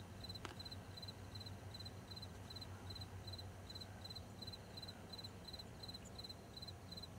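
Faint insect chirping: a steady run of short, high-pitched double chirps, about three a second, typical of a cricket.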